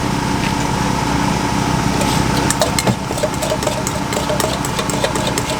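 A small engine, such as a generator or idling motor, runs steadily with a constant hum. Scattered sharp clicks and knocks come over it from about two seconds in.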